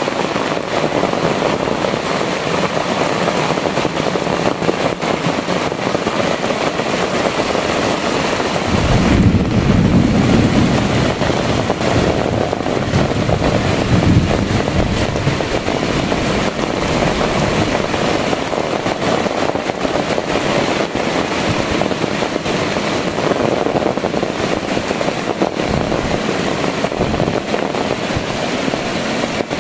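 Heavy rain falling steadily on dense foliage and the ground. A low buffeting rumble of wind on the microphone comes in about a third of the way through and lasts several seconds.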